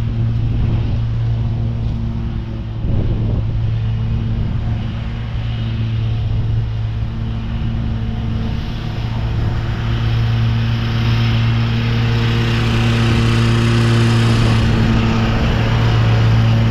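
Ride-on lawn mower engine running at a steady speed while mulching leaves, with a noisy rush on top that grows louder about halfway through.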